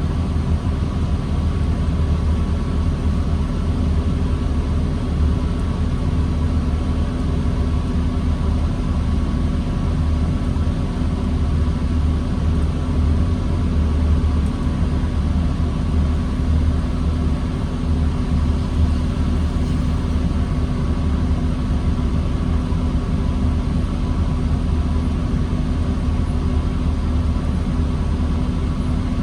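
New Flyer D40LFR diesel transit bus engine running steadily with a deep rumble and a steady high tone above it, heard from on board the bus.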